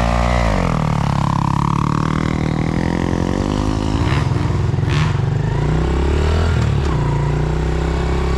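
Dirt bike engines: one revs up and accelerates, its pitch climbing and then dropping through the gears, while another dirt bike idles steadily underneath.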